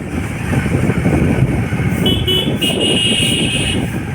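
A vehicle horn sounds two short toots about two seconds in, then one longer blast of about a second. Under it runs steady wind buffeting on the microphone and road noise from riding.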